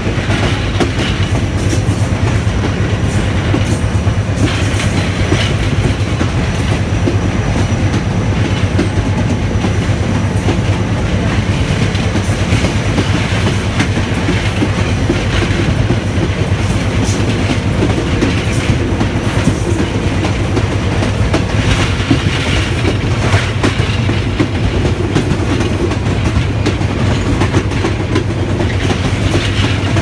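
Train wheels running over the track of an old railway bridge, heard from on board: a steady, loud rumble with frequent clicks and clatter from the rails.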